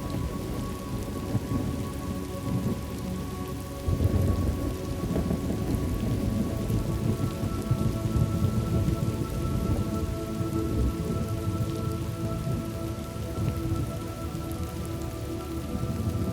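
Thunderstorm ambience: steady heavy rain with rolling thunder, the rumble swelling sharply about four seconds in.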